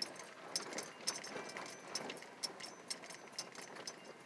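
Car rolling slowly along a narrow road: irregular light clicks and crackles, several a second, over faint road noise.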